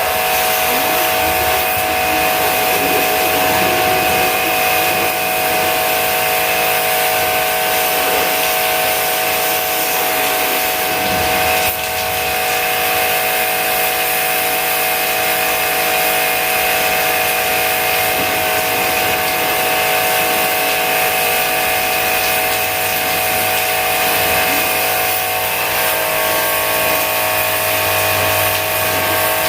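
A machine motor running steadily with a constant whine over noise, dipping briefly about twelve seconds in.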